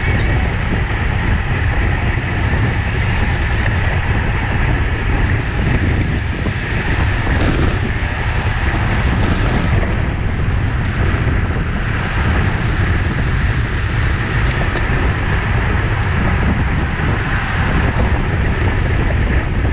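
Steady wind buffeting the microphone of a bike-mounted camera while riding at race speed, a constant low rumble with a hiss above it.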